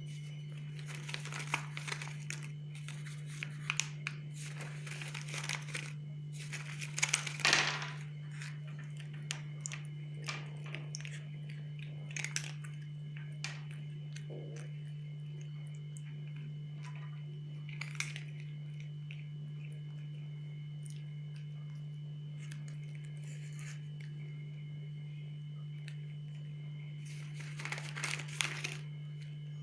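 Packaging crinkling and tearing in irregular rustles and crackles, loudest about seven seconds in and again near the end, over a steady low hum.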